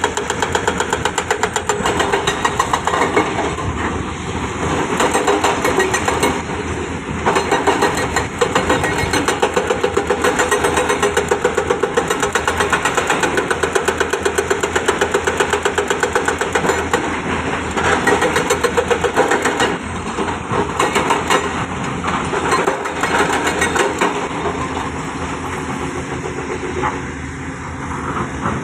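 Heavy construction machine's diesel engine running close by, with a fast throbbing pulse and a level that swells and eases repeatedly.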